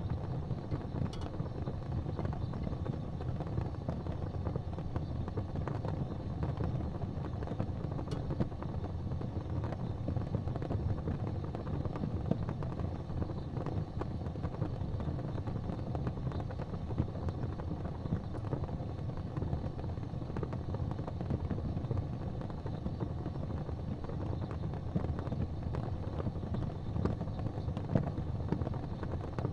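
Wood fire burning in a fireplace: a steady low rumble with a few faint crackles.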